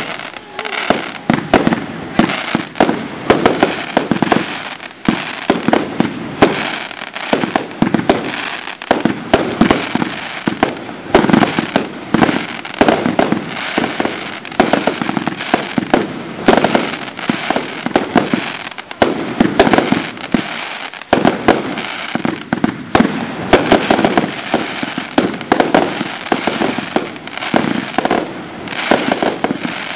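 Fireworks finale of consumer cakes and reloadable aerial shells firing together: a continuous barrage of rapid, overlapping bangs and bursting breaks with no let-up.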